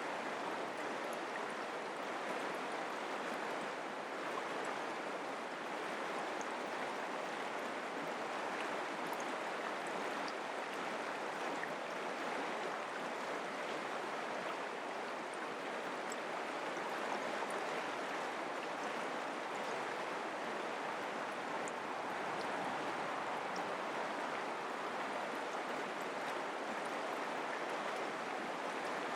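Mountain creek water flowing steadily over rocks, an even rushing with no change in level.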